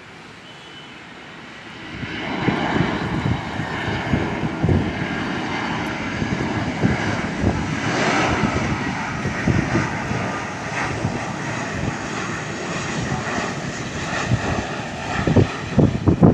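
Airliner coming in to land, passing close: its engine noise rises sharply about two seconds in and holds loud as a broad rush with a faint whine over it, with uneven low thumps near the end.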